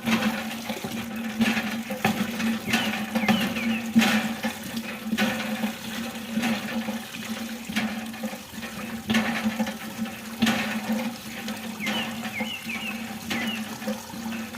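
Water gushing and splashing from a miniature DIY hand pump, surging with each pump stroke about every second and a half, over a steady low hum.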